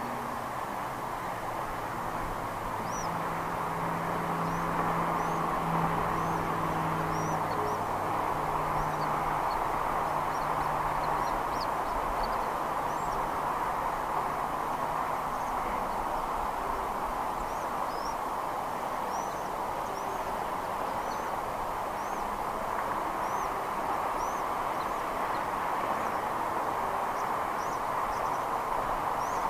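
Outdoor ambience: a steady rushing noise with short, high bird chirps scattered throughout, more often in the second half. A low droning hum is also heard for the first ten seconds or so.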